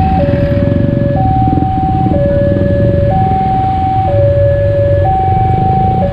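Railway level-crossing warning alarm sounding a steady two-tone electronic signal, switching between a lower and a higher note about once a second. Motorcycle and car engines run beneath it.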